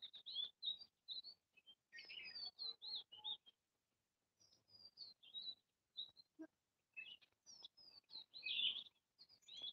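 Small birds chirping faintly: many short, high calls and quick up-and-down notes in irregular runs, with a brief lull partway through.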